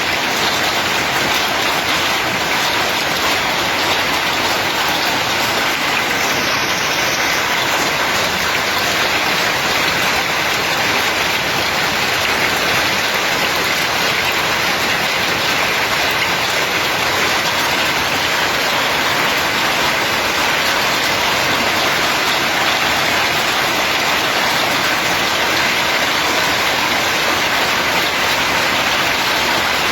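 Heavy downpour falling steadily, a dense even hiss of precipitation on surfaces.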